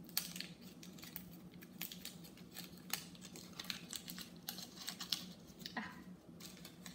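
A Hershey's Special Dark miniature chocolate bar being unwrapped by hand: a run of small, irregular crinkles and crackles from its wrapper, over a low steady hum.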